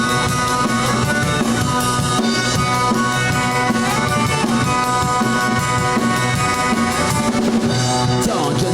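Live band playing an instrumental passage of a rock song: a drum kit keeping a steady beat under sustained guitar and bass.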